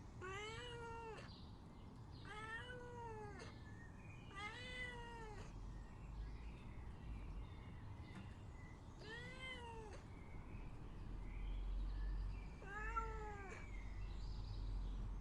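A cat meowing: five drawn-out meows of about a second each, spread at uneven intervals, each rising and then falling in pitch.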